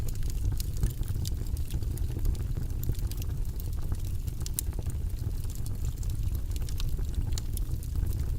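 Log fire burning in a fireplace: a steady low rumble of flames with irregular sharp crackles and pops from the burning wood.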